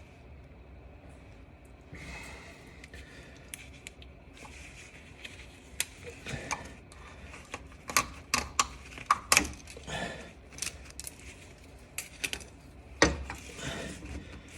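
Scattered light metallic clicks and clinks of tools and car parts being handled under a car, growing busier about halfway through, with one louder knock near the end.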